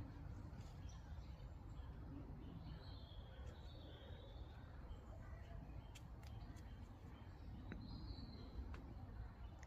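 Faint bird chirps now and then over a steady low background rumble.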